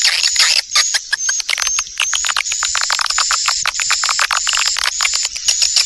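Swiftlet twittering from a lure-call recording: a dense run of quick clicking chirps, overlaid by short high notes each held about a third of a second and repeated roughly twice a second. It is the calling sound played in swiftlet houses to draw the birds in to roost and nest.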